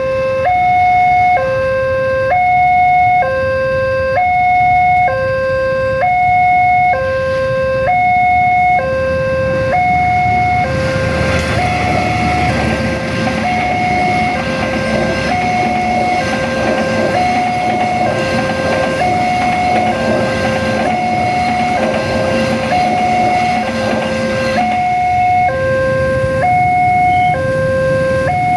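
Railway level-crossing warning alarm: an electronic two-tone signal alternating steadily between a low and a high tone, about a second each, warning that a train is approaching. From about 11 to 25 seconds in, a broad rumble with a low steady hum joins it, likely a train going through the crossing.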